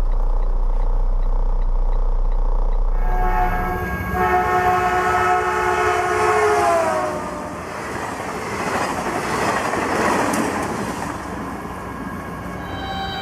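A train horn sounding for about three seconds, sliding down in pitch as it ends, followed by the rushing rumble of the train going past. Before the horn there is a steady low hum, and a horn starts again near the end.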